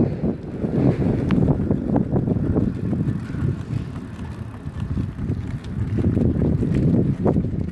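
Riding a bicycle: wind buffeting the microphone over tyre and road rumble, with occasional sharp clicks and rattles.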